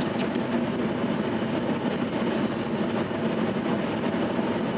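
Steady engine and road noise heard inside a truck's cab while driving, with one brief click just after the start.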